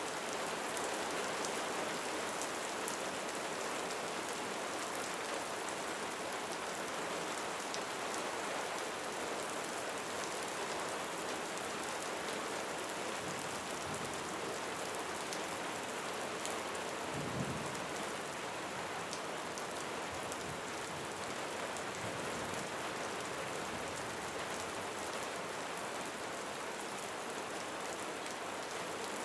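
Steady rain falling on a roof, an even hiss of drops. A brief low rumble comes a little past halfway.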